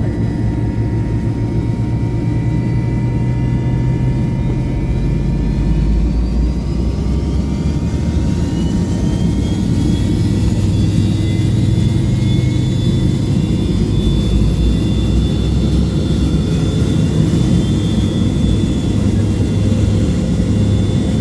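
Pratt & Whitney JT8D turbofan engines of a McDonnell Douglas MD-83 airliner running with a steady low rumble. A thin high whine climbs in pitch about eight seconds in and then holds steady as the engines spool up.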